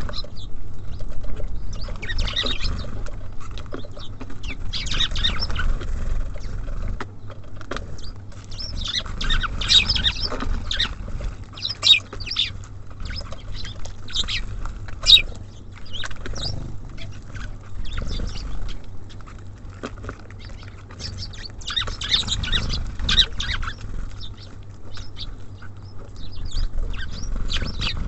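Small songbirds at a bird feeder chirping in short bursts, mixed with sharp taps and clicks. A steady low rumble sits underneath.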